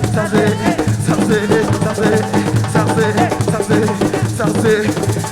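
Live Senegalese assiko band music: drums and shaken percussion keeping a dense, steady rhythm, with a wavering melodic line above it.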